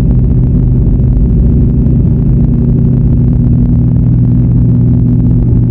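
Steady low drone of a car being driven, engine and road noise holding an even pitch throughout.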